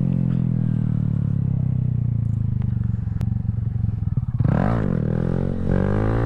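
Honda Grom's 125 cc single-cylinder engine slowly dropping in revs, then blipped sharply up and back down about four and a half seconds in, and revved up again near the end as the rider works the throttle for a wheelie.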